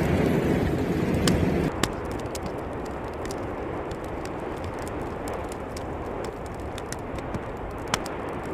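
Volcanic eruption noise: a steady deep rush with scattered sharp cracks, loudest for the first couple of seconds, then dropping abruptly to a quieter steady hiss that still carries scattered cracks.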